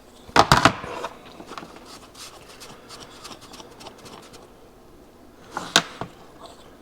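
Hand tools and small metal parts clicking and knocking on a workbench as a go-kart's small carburetor is taken apart. A loud clatter comes about half a second in, light ticking and scraping follows, and there is another sharp knock near the end.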